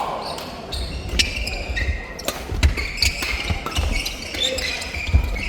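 Badminton rally: sharp racket hits on the shuttlecock, court shoes squeaking on the floor, and thudding footwork.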